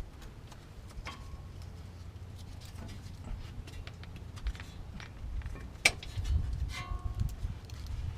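Light metallic clicks and handling knocks as a brake caliper is hung from the strut with a bungee cord and its hook, with one sharp click about six seconds in, over a low steady rumble.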